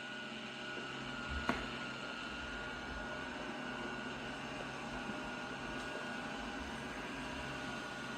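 iRobot Roomba Vac Essential (Q0120) robot vacuum running: a steady motor whir with a thin, even high whine, and a single click about a second and a half in.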